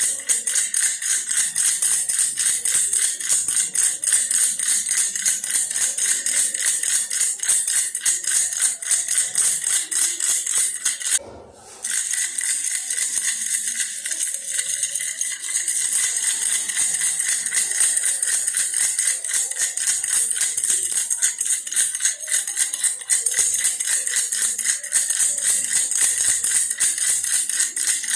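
Baby's toy bear rattle shaken fast and without letup, its beads making a dense rattle with a steady high ring underneath. The shaking stops for under a second about eleven seconds in, then carries on.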